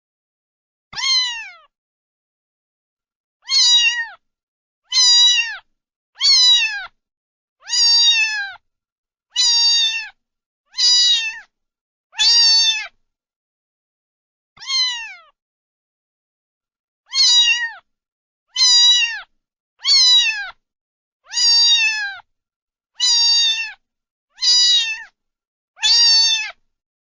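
A cat meowing over and over: about sixteen short, high meows, each falling in pitch, spaced a second or two apart with a longer gap near the middle.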